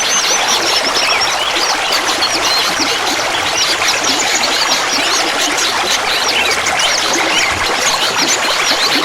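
Clear water babbling steadily, a continuous trickle dotted with many quick, high bubbling plinks.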